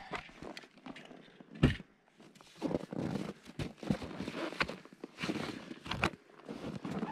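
Footsteps of a person walking on snowshoes through snow, in a steady run of steps, with one sharp thump about a second and a half in.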